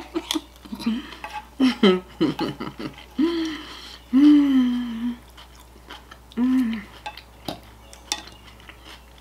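A mouthful of salad chewed close to the microphone, with a few clicks of a fork against the plate. She makes three contented closed-mouth "mmm" hums while chewing; the middle one is the longest and loudest.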